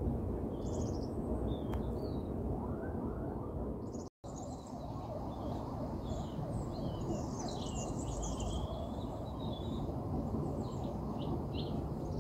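Small birds chirping and trilling in short, scattered calls over a steady low background rumble, with a brief dropout to silence about four seconds in.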